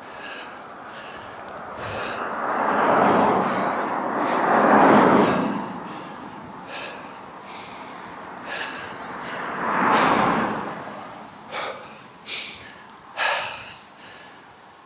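Motor vehicles passing close by on the road, three swells of tyre and engine noise that rise and fade, with a person's heavy breathing from walking uphill, turning into short sharp gasps about once a second near the end.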